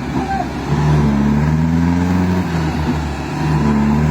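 Forland truck engine running steadily under load, its pitch rising a little, dipping briefly about three seconds in, then picking up again.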